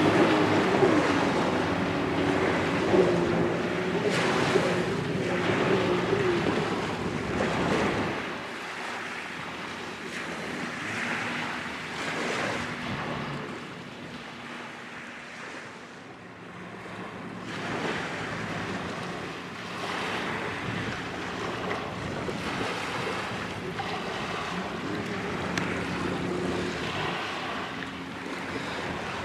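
A boat engine running on the water with wind and small waves, the engine loudest at first and fading about eight seconds in, leaving mostly wind and water with a fainter engine hum later on.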